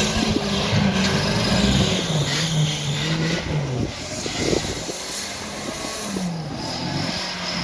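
Off-road 4x4 engine revving, its pitch rising and falling. It eases off about four seconds in and revs up again near the end.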